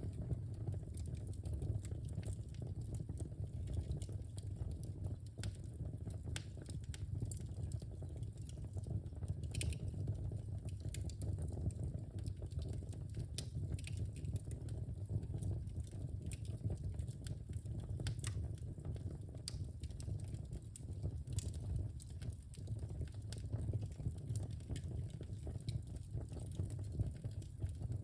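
Wood fire burning in a fireplace: a steady low rumble of flames with frequent irregular crackles and small pops from the burning logs.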